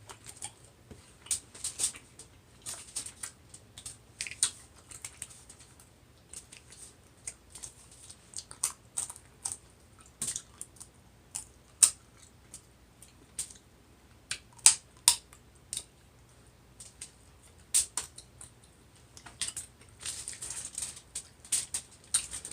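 Close-up eating sounds of a seafood boil: irregular sharp clicks and cracks from seafood shells being broken and picked, with wet chewing and smacking, a few louder cracks standing out.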